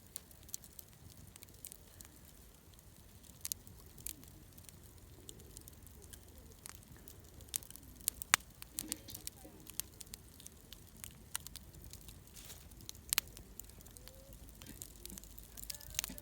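Wood bonfire crackling, with irregular sharp pops over a low steady rumble; two pops stand out, about halfway in and again a little later.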